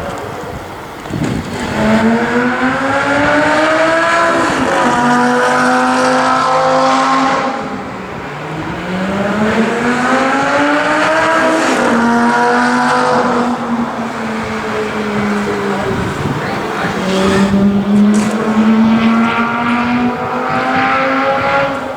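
Lamborghini Gallardo V10 engine accelerating hard through the gears. Its pitch climbs, drops back at each upshift, and climbs again several times, with steadier stretches between.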